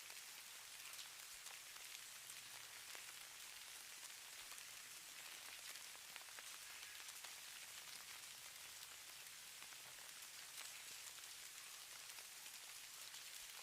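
Faint, steady hiss of falling snow or fine precipitation pattering on a surface, made of many tiny ticks.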